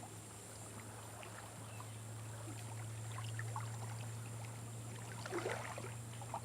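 Quiet waterside ambience: faint water trickling and lapping among rocks, with a steady low hum underneath and a few faint ticks.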